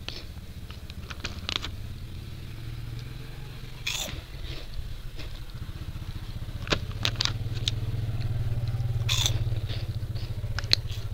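Crunchy potato chips being chewed close up, with scattered sharp crunches and clicks. Under them runs a low steady rumble, louder in the second half.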